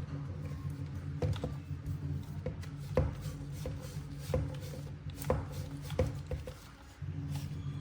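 Hands handling plastic toy packaging and action figures: a handful of sharp clicks and taps spread over several seconds, over a steady low hum.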